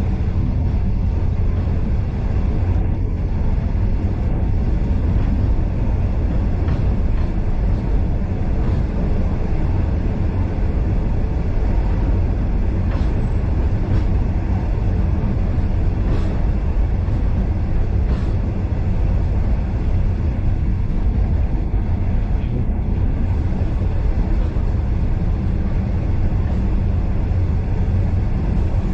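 Steam-hauled excursion train's passenger carriage running along the line, heard from inside: a steady low rumble of wheels on rails with a few faint ticks.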